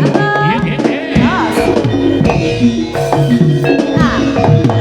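East Javanese jaranan senterewe music: drumming and gamelan percussion under a wailing melody line that swoops up and down in pitch.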